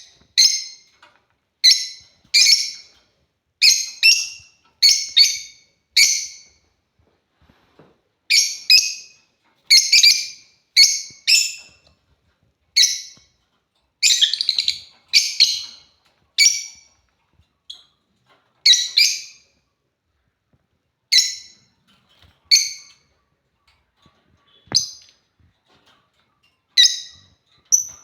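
African lovebirds calling with short, high-pitched chirps, repeated about once a second in runs with brief pauses. There is one faint click near the end.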